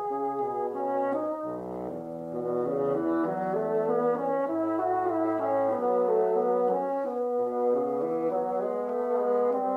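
Classical music played on bassoons: several wind parts in slow, held notes moving in steps, with no beat.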